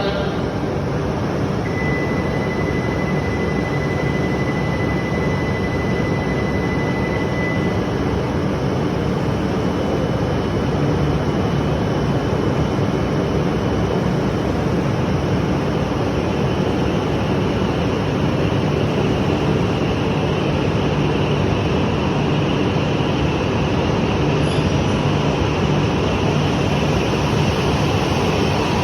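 E5 and E6 series Shinkansen train (17 cars coupled) pulling out of the station, a steady running rumble. A thin high whine sounds over it for several seconds near the start.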